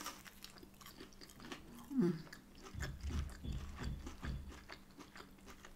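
Close-up chewing of a crispy breaded plant-based nugget dipped in mayo: a bite, then small crunches and wet mouth clicks. A brief hum comes about two seconds in.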